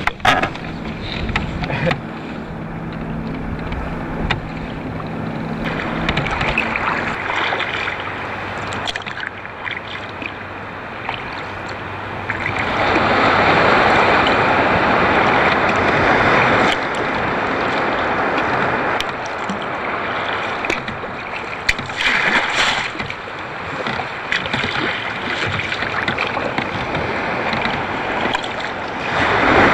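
Wake from a passing powerboat washing and splashing against rafted-up sea kayaks, in surges, the biggest lasting several seconds from about twelve seconds in. A low engine hum from the boat fades out after about seven seconds.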